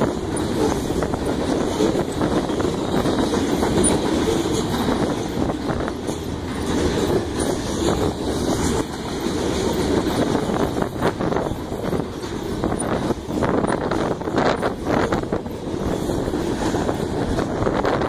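Fast-moving grain train of covered hopper cars rolling past: a steady rumble of steel wheels on rail with clickety-clack, and a few sharper clacks past the middle.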